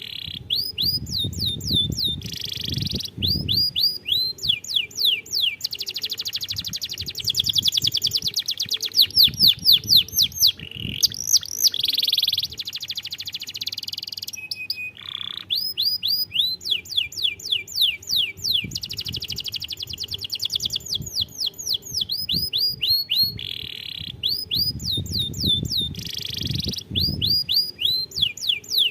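Domestic canary singing a long, continuous song. It goes phrase after phrase of quickly repeated falling notes and fast trills, with only short breaks between phrases.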